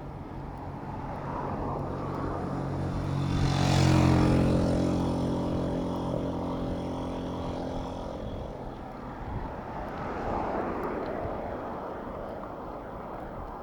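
A motor vehicle's engine passing close by in traffic, its note swelling to a loud peak about four seconds in and then fading, over a steady hum of other traffic.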